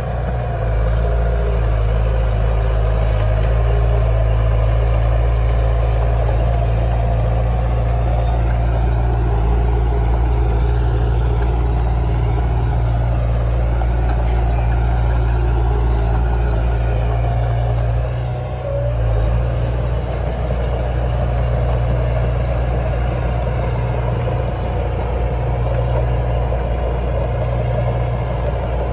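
Heavy diesel engine of earthmoving machinery running steadily with a deep rumble, with a brief drop in level about 18 seconds in before it carries on.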